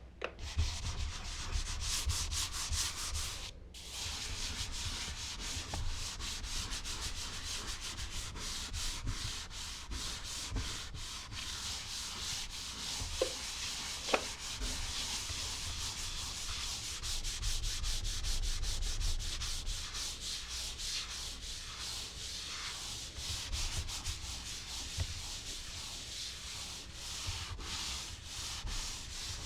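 Charcoal being rubbed and scratched across smooth Bristol paper in a dense run of quick strokes, with a short pause about three and a half seconds in.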